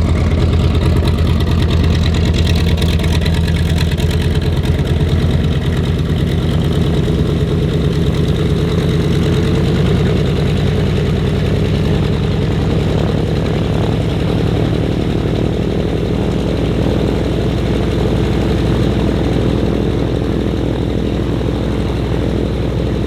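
A piston engine running steadily at idle, with an even pulsing beat.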